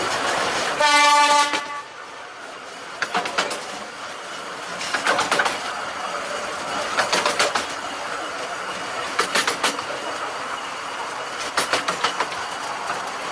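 A 15-inch gauge miniature railway train running, with one short toot from its locomotive about a second in. The coach then rolls along, its wheels clicking over rail joints in small clusters roughly every two seconds.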